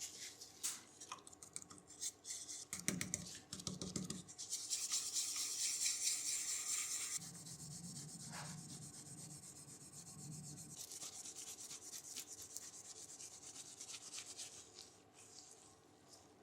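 Hand rubbing and scrubbing on a heater part being cleaned. Scattered clicks and knocks come first, then about ten seconds of steady rasping, loudest a few seconds in.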